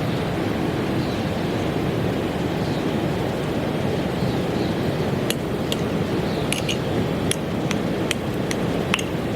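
Steady rushing of a flowing river, with about ten sharp light clicks or clinks scattered through the second half.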